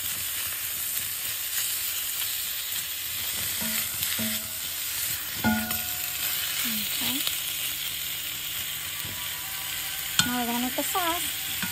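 Sliced beef and onions sizzling steadily in a hot stainless steel pan as they are sautéed and stirred with a spatula. About halfway through and again near the end there is a sharp clack of the spatula against the pan.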